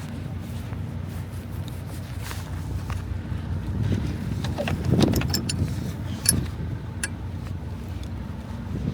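Semi truck's diesel engine running steadily at idle, with wind on the microphone. A swell of noise comes about five seconds in, followed by a few sharp clicks.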